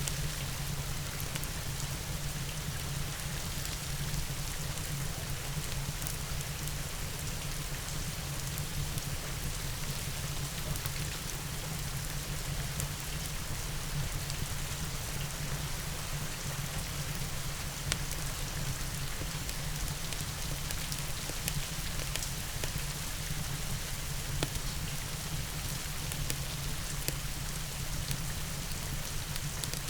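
Steady rain over a low, even rumble, with scattered sharp crackles of a wood fire burning in a fireplace.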